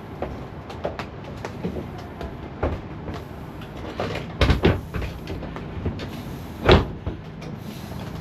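Knocks and clunks of a MK2 Ford Fiesta door being handled and lifted into place on its hinges: scattered light taps, a few heavy thumps about four and a half seconds in, and the loudest thump near seven seconds in.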